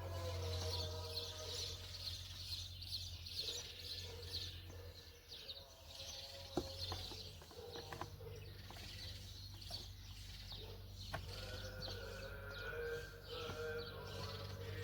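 Small birds chirping repeatedly over a steady low hum, with a few sharp clicks in the middle.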